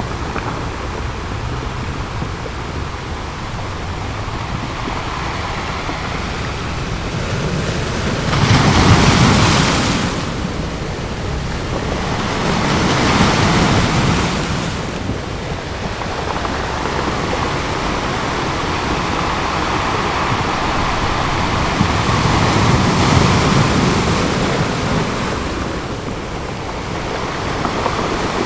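Ocean surf washing onto a beach: a steady hiss of water with three larger waves swelling and breaking, the loudest about a third of the way through.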